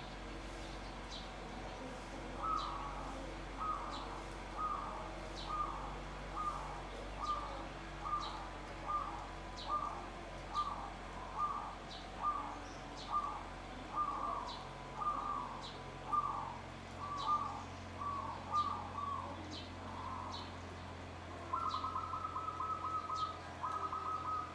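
Zebra doves (perkutut) cooing: a long run of short, repeated coo phrases, a little more than one a second. Near the end it turns into a faster, continuous trilled coo. Faint short high chirps sound throughout.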